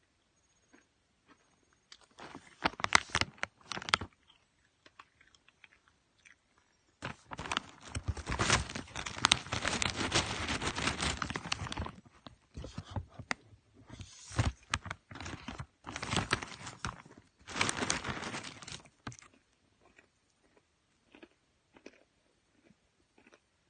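A person biting into and chewing a crunchy corn snack, in three bouts of crunching: a short one about two seconds in, the longest from about seven to twelve seconds, and another from about fourteen to nineteen seconds.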